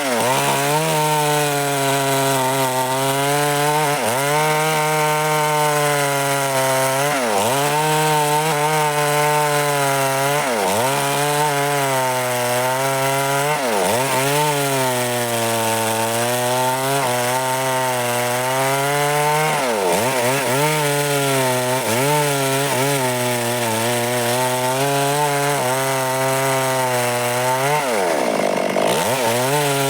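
Stihl MS 382 single-cylinder two-stroke chainsaw running at high speed through wood. Every few seconds its engine note drops briefly and comes back up.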